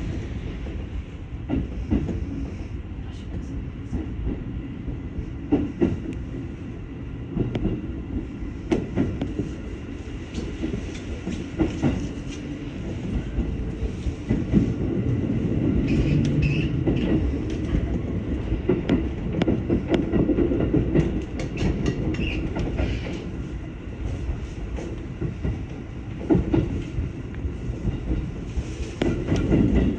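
Electric commuter train running on the rails, with a steady rumble and irregular clicking and clattering as the wheels pass over rail joints.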